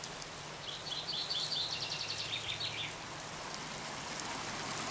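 A small bird singing a quick run of high, repeated notes for about two seconds, starting just after the start, over a steady hiss of running water.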